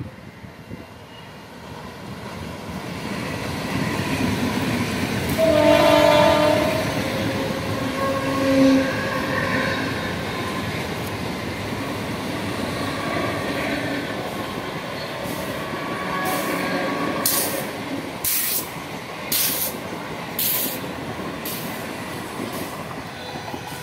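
ICF-built EMU local train approaching and passing close by: the rumble of wheels on rail builds up, and the horn sounds about six seconds in. The train then rolls past steadily, with sharp clicks about once a second near the end as the wheels cross rail joints.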